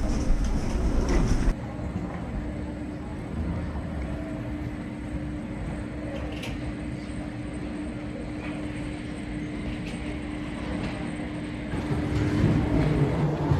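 Steady low hum of a vehicle interior with one steady tone running through it. It cuts abruptly from a louder, noisier stretch about a second and a half in, and swells again near the end.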